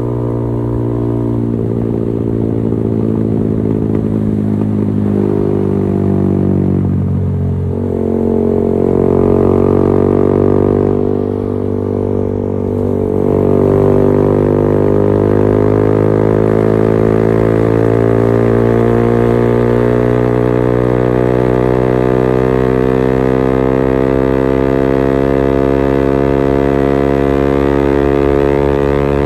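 Yamaha XSR 155's single-cylinder engine through a LeoVince GP Corsa Evo aftermarket exhaust, running under way. Its pitch drops and picks up twice in the first half, then climbs slowly and steadily for the rest.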